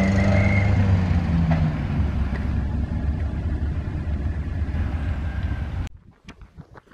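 A vintage car's engine running at low speed as it goes past, with a steady note that slowly fades. It cuts off suddenly about six seconds in, leaving a much quieter background with faint clicks.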